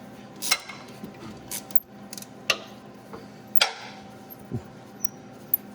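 About half a dozen separate metallic clinks and taps, spread a second or so apart, from hand tools and metal parts being handled, over a steady faint hum.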